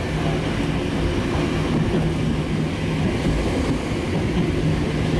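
Sangi Railway electric local train running on its rails, heard from inside the driver's cab: a continuous rumble with a steady low motor hum.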